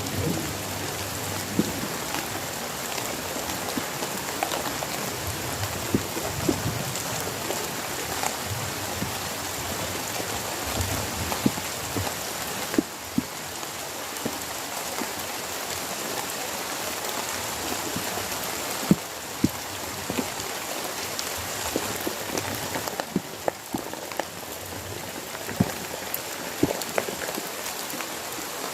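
Heavy rain falling steadily, with many sharp drops tapping close by.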